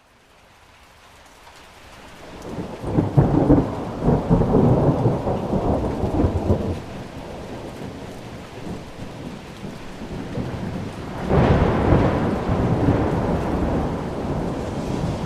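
Thunderstorm: steady rain with two rolls of thunder. The first swells up over the first few seconds and rumbles away. The second breaks in suddenly past the middle and fades slowly.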